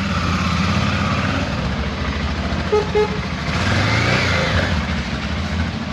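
Motorcycle engine running steadily under way on a trail, with two short horn beeps close together about three seconds in.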